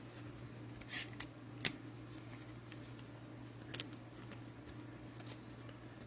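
Trading cards being handled: a few short scrapes and clicks, the sharpest about a second and a half in and a double one near four seconds, over a low steady hum.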